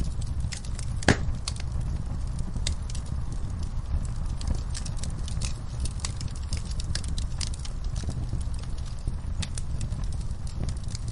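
Wood fire in a fireplace crackling, with frequent small pops over a steady low rumble of the flames and one sharper pop about a second in.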